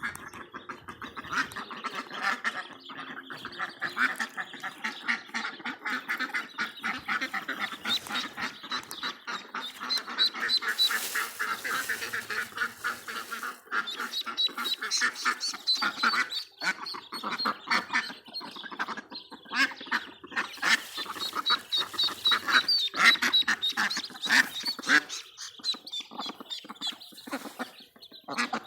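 A flock of ducks and ducklings calling continuously: rapid, overlapping quacks and chatter with high thin peeping from the ducklings.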